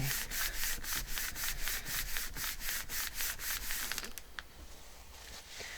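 Fast back-and-forth rubbing strokes on paper, about five a second, stopping about four seconds in.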